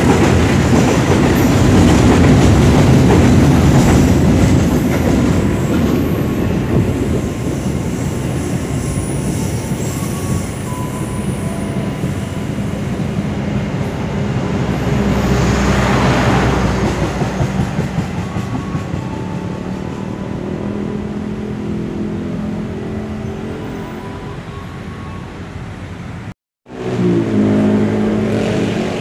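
Trains passing close by: a container freight train and a diesel-hauled passenger train rumbling over the rails, loudest at first and slowly fading, with a swell about halfway through. A steady low hum follows, and the sound cuts out for a moment near the end.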